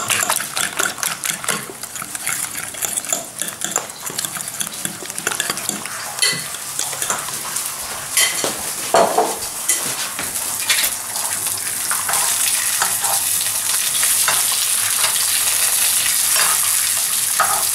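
A fork beating eggs in a ceramic bowl, with quick repeated clinks against the sides. Then, about two-thirds of the way through, thin courgette slices frying in oil in a pan, a steady sizzle, with a few clinks of a fork or utensil against the pan.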